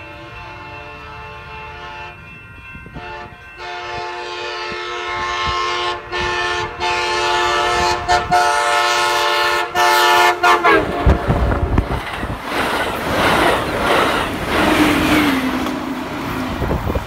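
Amtrak Pacific Surfliner passenger train sounding its multi-tone horn as it approaches at speed: a fainter blast, then a long loud one of about seven seconds that dips in pitch as the train reaches the microphone. The loud rush and rumble of the train passing close by follows.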